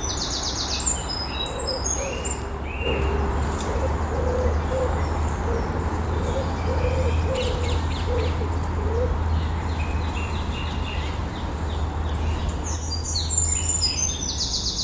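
Woodland birdsong: a songbird sings phrases of quick, varied high notes with a rapid trill near the start and again near the end. In between comes a run of low, soft repeated notes, like a dove cooing or an owl hooting.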